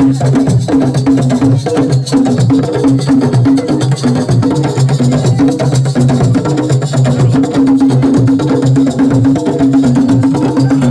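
An assiko band playing a fast, dense percussion groove of drums and wood-block-like clicks over a repeating low note pattern.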